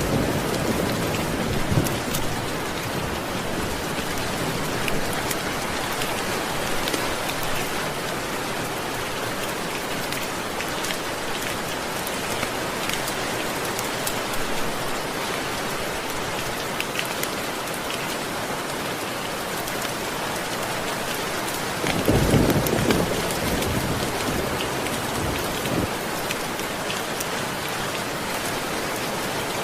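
Steady heavy rain with scattered sharp drop ticks, and rolls of thunder: a low rumble right at the start and a louder, short one about three-quarters of the way through.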